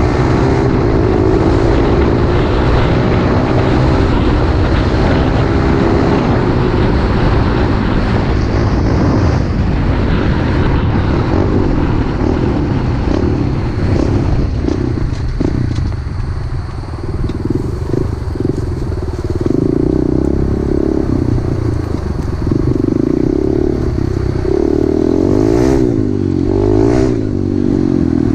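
Pit bike engine running while being ridden, its pitch rising and falling as the throttle opens and closes; it eases off a little past halfway, then picks up again with quick revs near the end.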